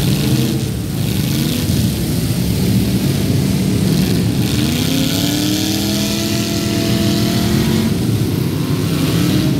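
Several stock V8 demolition-derby car engines running together. One revs up in a smooth rising pitch about halfway through, holds high for a few seconds, then drops back near the end.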